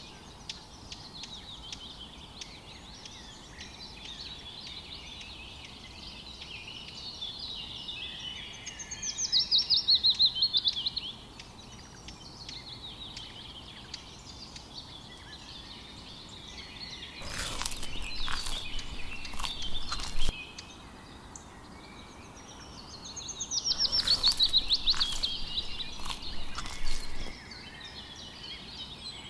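Birds singing outdoors: a rapid trilled song that falls in pitch comes twice, about 8 seconds in and again near the end, with scattered chirps between. A handful of sharp clicks or taps come in the middle.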